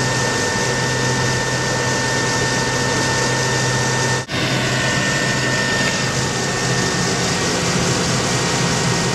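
Ford F750 bucket truck running steadily with a constant hum, cut off for an instant about four seconds in.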